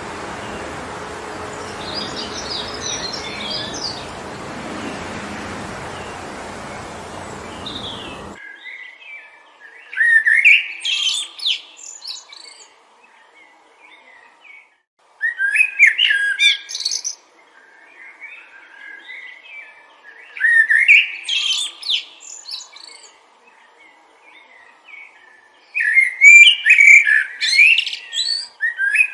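Wind rushing steadily through trees, with a few faint bird chirps, cuts off abruptly about eight seconds in. A songbird then sings short, loud phrases of quick sweeping notes, one every five seconds or so, four times.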